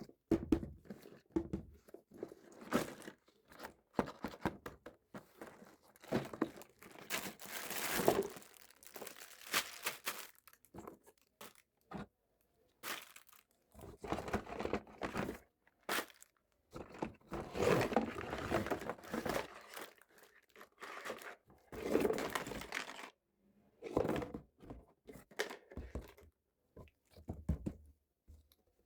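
Packaging being handled close up: plastic crinkling and tearing in irregular rustling bursts with short pauses, as toy pieces are unwrapped.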